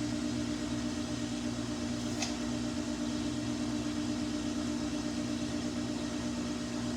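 Samsung washing machine running with a steady motor hum and drum noise, with one light click about two seconds in.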